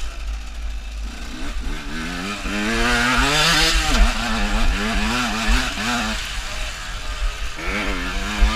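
Enduro motorcycle engine under hard riding, its note climbing over the first few seconds, dropping sharply about four seconds in, then rising and falling with the throttle and climbing again near the end. A steady low rumble of wind on the microphone runs underneath.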